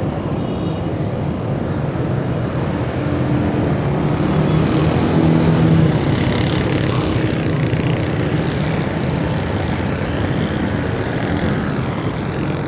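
A running engine drones steadily with a low hum, with a rushing noise over it that swells a little about six seconds in.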